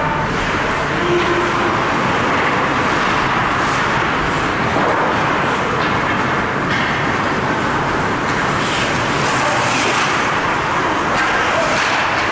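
Steady noise of an ice hockey game in a rink, with a few short hissing streaks now and then.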